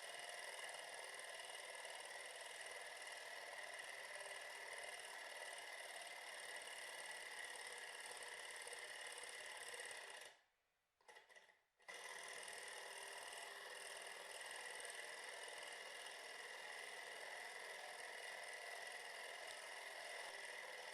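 Small two-cylinder Stirling engine model running, a faint steady mechanical whir. The sound drops out briefly about halfway through.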